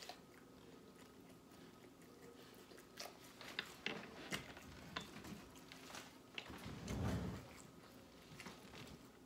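A person chewing a mouthful of goat roti with lips closed: soft wet clicks and smacks from the mouth, several in the middle, with a brief low sound about seven seconds in.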